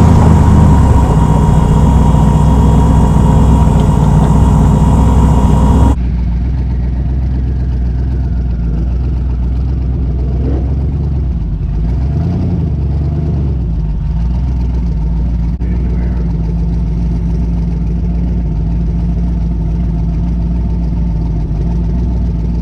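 Twin-turbo 5.3 LS V8 running at low speed, steady at first; about six seconds in the sound drops suddenly to a quieter, steady idle with a few small rises and falls in pitch.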